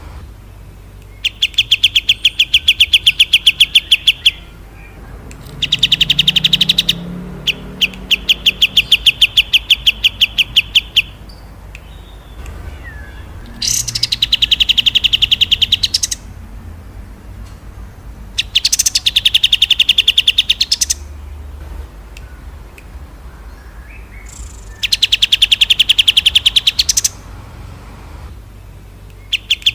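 A small songbird repeating fast rattling trills of sharp chip notes, each lasting two to three seconds, about five times with short pauses between, over a faint low hum.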